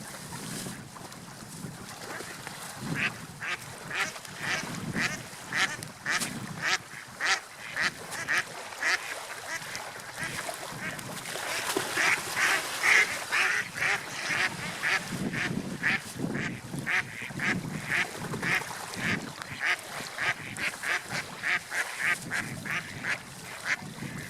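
Seagulls calling in a long run of short, repeated cries, starting about three seconds in and busiest around the middle, over a low rushing background.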